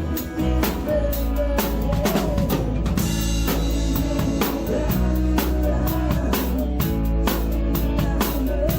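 Drum kit played live in a band, with steady kick, snare and cymbal strikes over sustained bass and melody instruments.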